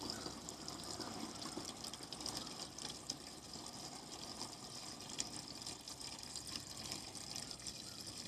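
Gasoline pouring steadily from a gas can into a container as it fills.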